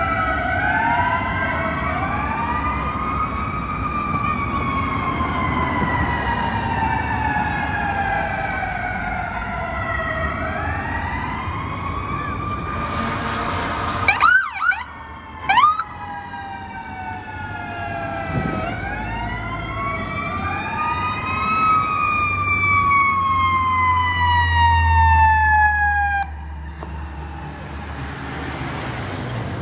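Fire apparatus sirens wailing, with several sirens overlapping; each rises quickly and then falls slowly in pitch. Two quick siren chirps come about halfway through, over a steady low rumble.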